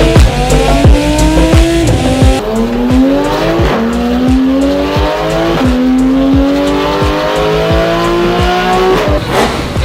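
High-performance sports car engine accelerating hard, its pitch climbing through each gear and dropping at upshifts about four times. A steady drum beat thumps underneath.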